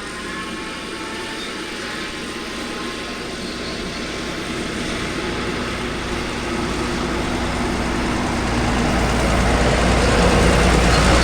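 Case IH Maxxum 150 tractor running with its DC133 disc mower-conditioner cutting hay at slow PTO speed, about 570 rpm. A steady engine and cutterbar drone that grows steadily louder.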